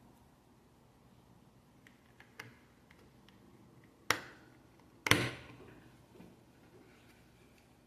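Plastic Lego pieces being handled during a build: a few light clicks, then two sharp clicks about a second apart.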